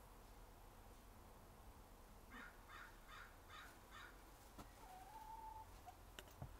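Hen straining to lay her first egg, giving a run of five faint short calls in quick succession, then one longer even note. A few faint clicks follow near the end.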